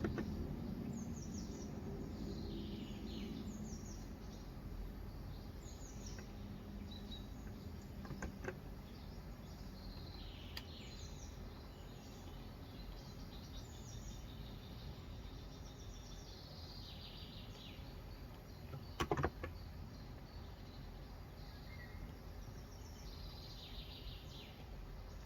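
Birds chirping outside in short, repeated downward calls over a steady low background hum. A faint click comes about 8 seconds in and a louder double click near 19 seconds.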